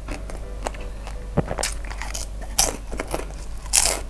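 Close-miked chewing and crunching of a mouthful of food: irregular crisp crunches and wet mouth sounds, the loudest one near the end.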